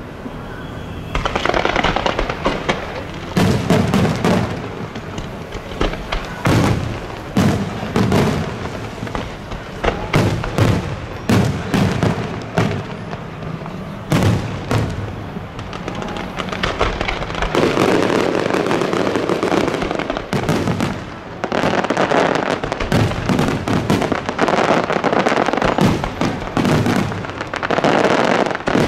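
Aerial fireworks shells bursting overhead in quick succession, bang after bang, with stretches of dense crackling in the second half.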